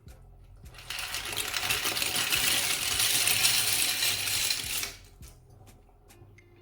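Dry macaroni poured from a dish into a cooking pot: a dense clattering rattle of the hard pasta pieces that starts about a second in, runs for about four seconds and then stops.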